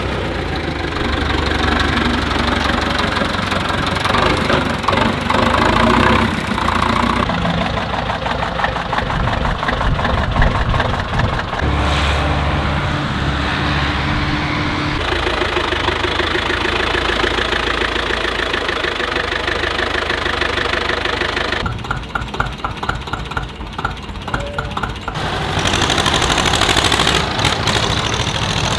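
Tractor engines running as tractors drive in one after another. The engine sound changes abruptly several times.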